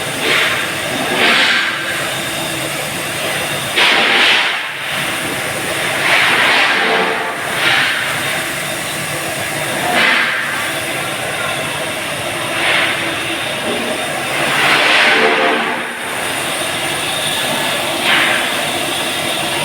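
Steel pipe mill machinery running steadily with a low hum, and a hiss that swells and fades about nine times at uneven intervals of one to three seconds.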